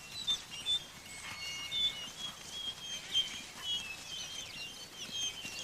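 Wolves whining and squeaking as they greet one another: a continuous run of many short, high-pitched squeals and whimpers, overlapping.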